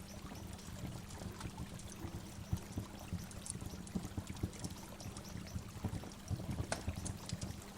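Waterfall: water falling and splashing steadily, a continuous rushing strongest in the low range, with irregular small splashes throughout.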